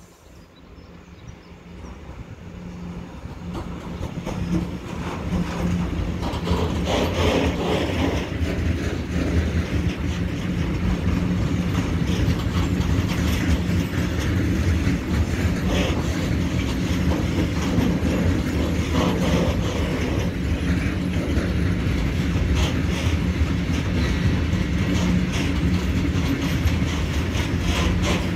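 Electric freight train passing: it grows louder over the first several seconds as the locomotive approaches, then a long string of covered freight wagons rolls by with steady wheel-on-rail noise and clickety-clack over the rail joints.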